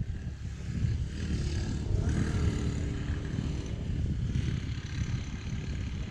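Royal Enfield Thunderbird 350's single-cylinder engine idling, a steady low pulsing, with the bike at a standstill. A higher-pitched steady tone rises over it from about one to four seconds in.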